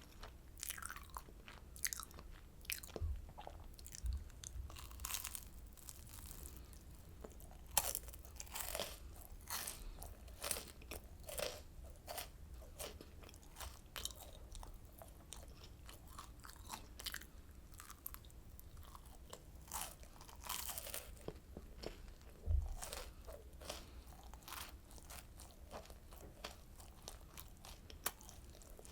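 A person biting and chewing oranda, a crisp Korean candy of puffed grain bound with syrup. Irregular crunches come every second or so.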